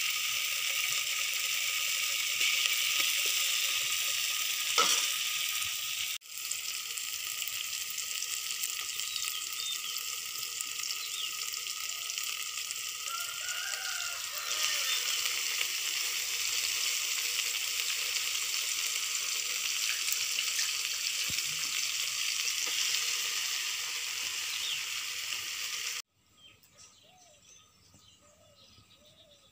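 Chopped tomato and onion frying and sizzling in a metal pot, stirred with a steel slotted spoon. Partway through, a handful of fresh leafy greens goes in and the sizzle carries on. Near the end the sizzling cuts off abruptly to a faint background.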